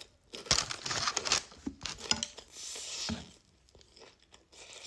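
Crinkling and rustling of takeout food packaging being handled, in several irregular bursts, with a few soft knocks in between.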